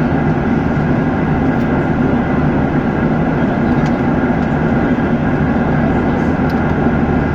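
Steady roar of an airliner cabin in cruise flight: engine and airflow noise, even and unbroken.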